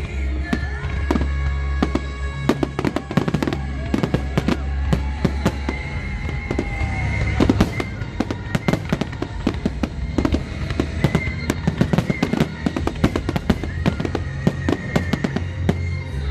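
Fireworks display going off in rapid succession: many sharp bangs and crackles, densely packed, with music playing alongside.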